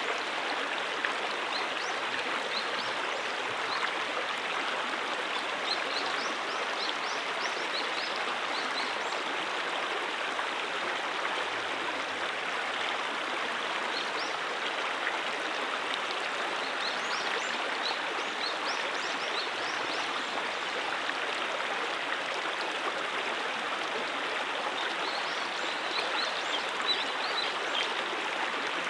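Brook running steadily: a continuous rush and babble of flowing water, with faint small bright splashes here and there.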